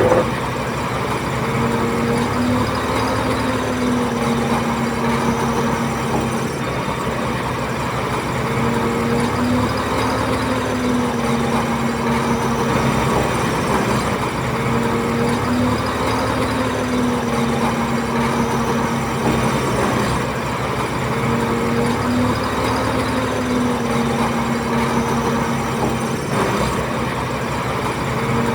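Heavy diesel earthmoving machinery running steadily, with a pitched tone in the engine drone that comes and goes roughly every six seconds.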